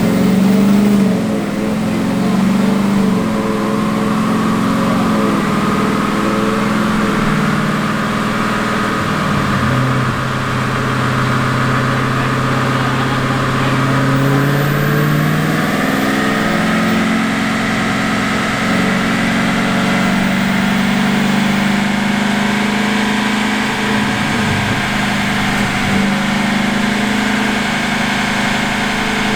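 Single-turbo Ford F150's 5.0 Coyote V8 running steadily at light throttle. Its note steps lower for several seconds about a third of the way in, then comes back up.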